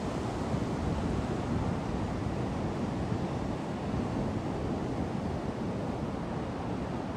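Steady rush of storm wind and breaking surf, with no single event standing out.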